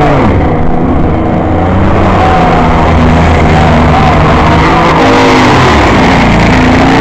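Several Baja race car engines running hard at once, revving up and down as the cars race around the track.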